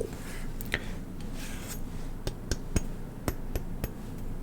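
A toy gun being handled and tapped: irregular sharp clicks and light knocks with some rubbing, most of the knocks coming in the second half.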